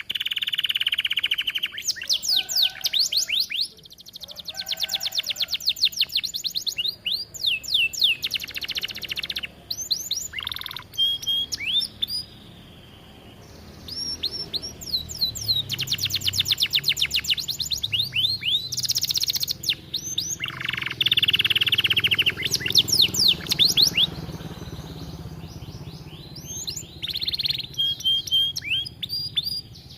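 Domestic canary singing vigorously: long, rapid trills of repeated rising notes and rolls, phrase after phrase, with brief pauses between, one longer about twelve seconds in.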